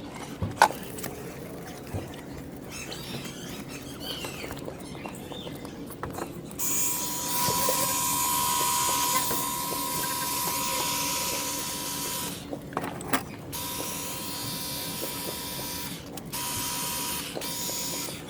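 Ryobi cordless pressure washer spraying in three runs: a steady whine from the pump motor over the hiss of the water jet. The first run starts about a third of the way in and lasts about six seconds; two shorter runs follow near the end. Before it, one sharp click.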